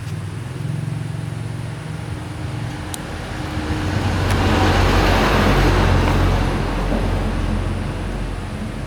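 A motor vehicle's engine running, growing louder towards the middle and easing off again near the end, like a vehicle passing close by.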